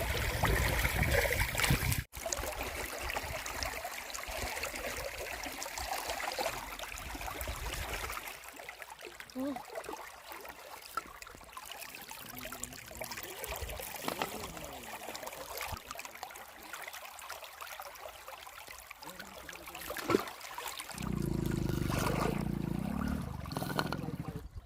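River water running and trickling, a steady hiss of flowing water that changes abruptly at cuts. A louder low rumble comes in near the end.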